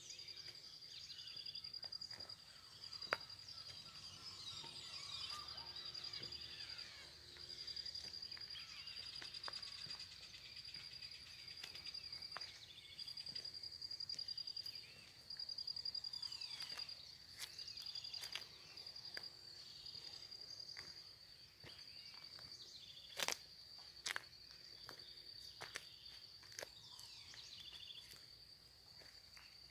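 Faint outdoor birdsong, with short chirps and calls over a steady, pulsing high insect trill. A few sharp clicks stand out, once early and twice past the middle.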